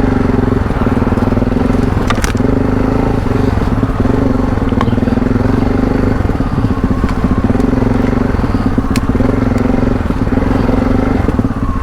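Parallel-twin adventure motorcycle engine running at a fairly steady speed through a tight off-road trail, with a few sharp clicks and knocks over it.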